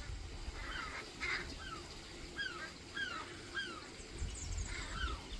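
A gull calling again and again in alarm while mobbing a buzzard: a run of short, clear calls, each one falling in pitch, about two a second.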